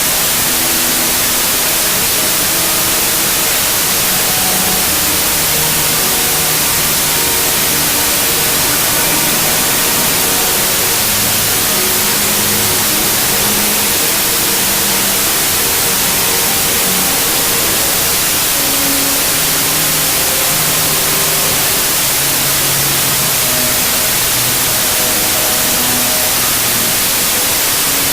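Loud, even hiss like white noise or static, holding a constant level with no swell or break. Faint short notes sound through it, like quiet music.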